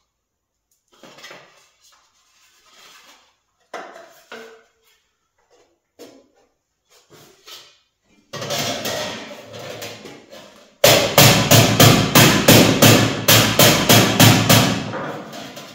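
Hammer blows on thin stainless-steel sheet: a rapid run of about eighteen sharp strikes, about four a second, in the second half, after a couple of seconds of a sustained scraping noise and some quiet handling sounds.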